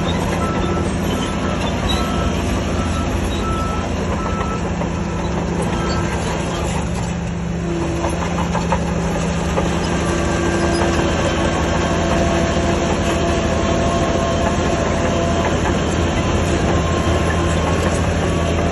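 Heavy earthmoving machinery, diesel engines running steadily under load. A reversing beeper repeats for the first few seconds, and there is some metallic clanking around the middle.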